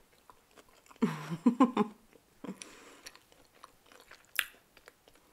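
Close-up mouth sounds of someone chewing a soft cheese sandwich: wet clicks and lip smacks, with a short hum of about a second starting about a second in.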